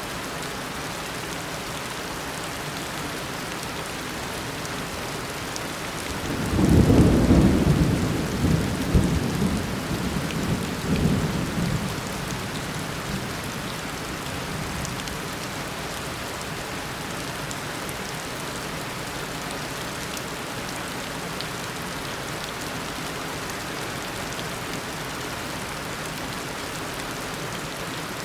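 Steady heavy tropical rain hissing, with a loud roll of thunder about a quarter of the way in that rumbles on in several surges for around five seconds before fading back into the rain.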